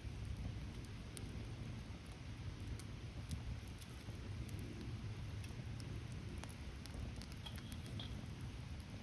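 Wood fire crackling, with irregular sharp pops and snaps over a low steady rumble of burning.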